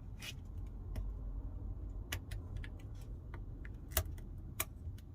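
Scattered small clicks and taps of a pry tool against the iPhone 12's internals as the battery flex connector is pried off its socket, with one sharper click about four seconds in. A steady low hum lies underneath.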